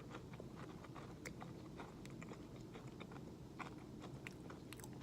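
A person chewing a crunchy oats-and-honey granola bar with the mouth close to the microphone: faint, irregular little crunches and clicks.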